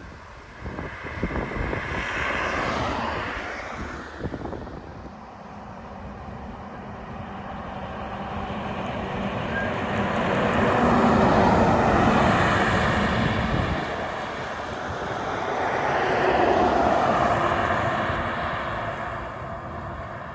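Heavy trucks passing on a road, one after another, each rising and then fading as it goes by; the loudest passes about halfway through and again a few seconds later, with an engine hum cutting off as one moves away.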